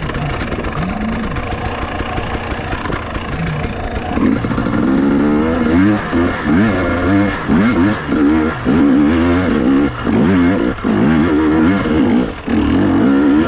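Two-stroke KTM enduro motorcycle engine running steadily at low revs, then, about four seconds in, revving up hard again and again as the bike rides off. The pitch climbs and falls back with short dips every second or two.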